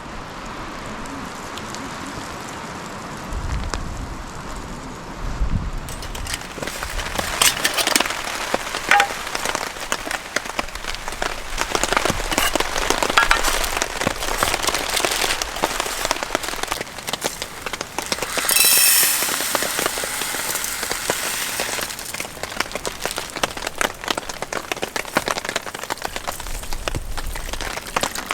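Rain falling, with dense drops pattering on a surface; the pattering grows heavier about six seconds in.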